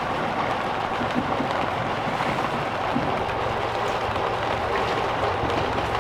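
Steady rain falling, an even hiss, with a steady low drone beneath it.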